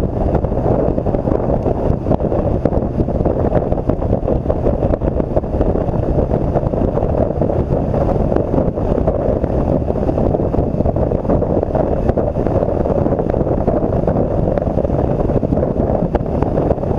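Steady wind rush buffeting the microphone of a BMW R1200 GS Adventure motorcycle ridden at road speed, with engine and road noise blended into it rather than standing out.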